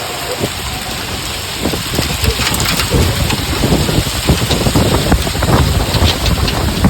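Hailstones and rain pelting down in a storm: a dense, loud patter of many small impacts that grows heavier about two seconds in.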